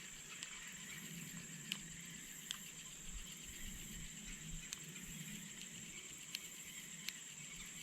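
Quiet creekside background: a steady high-pitched insect trill over a soft low rush of flowing water, with a few faint scattered clicks.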